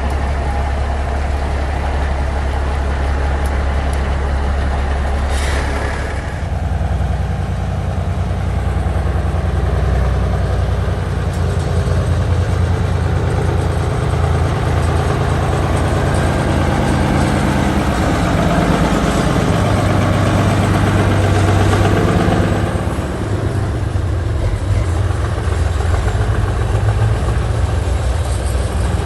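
Heavy diesel truck engines running, idling steadily at first, with a short hiss about five seconds in. The engine note then builds gradually as a truck pulls through, and eases off a little past twenty seconds.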